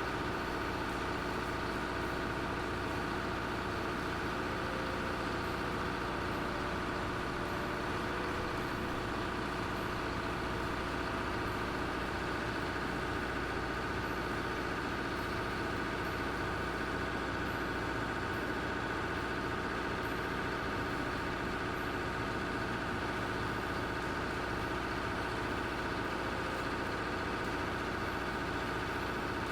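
Heavy vehicle engine running steadily at an even speed, with no revving or breaks.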